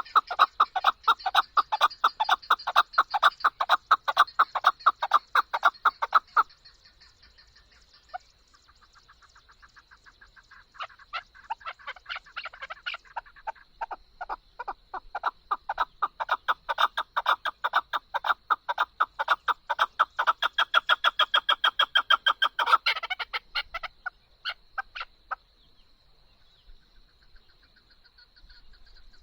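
Chukar partridge calling in long runs of rapid, evenly repeated clucking notes, several a second. The calls stop about six seconds in and start again a few seconds later, running until near the end. A faint steady high whine lies under the calls.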